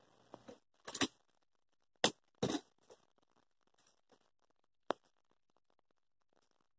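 A few short clicks and scrapes, the sharpest about two seconds in, with near silence between them.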